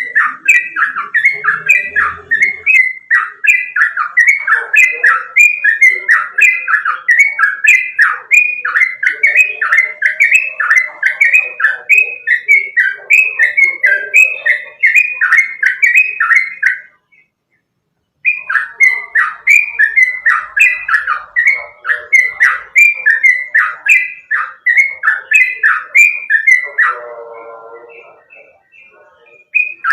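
Yellow-vented bulbul (trucukan) singing, a fast, loud run of repeated bubbly whistled notes, about two a second. The song stops for about a second just past the middle, then starts again. Near the end a lower, rougher call fades out.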